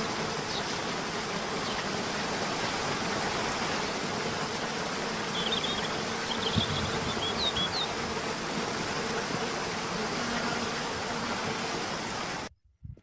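Steady outdoor ambience: an even hiss with a faint low hum, and a few short high-pitched chirps about halfway through. It cuts off abruptly near the end.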